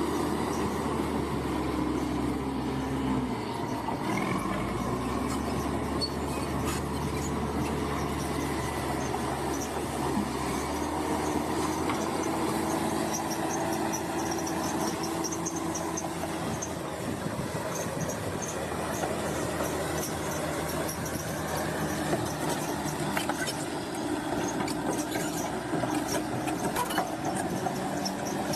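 Crawler bulldozer's diesel engine running under load, its note shifting a few times, with the steel tracks squealing and clanking.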